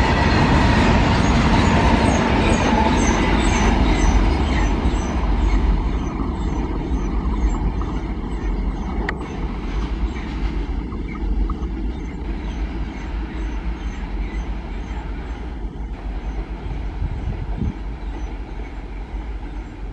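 Freight train wagons rolling past, the wheels clicking in a steady rhythm over the rail joints; the rumble is loud for the first few seconds and then fades as the train's tail draws away.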